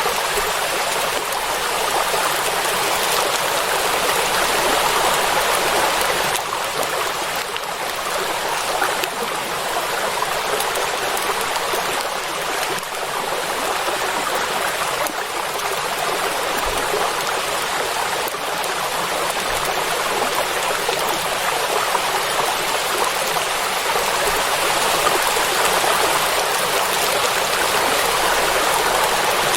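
Steady rain falling on open water, an even, unbroken hiss.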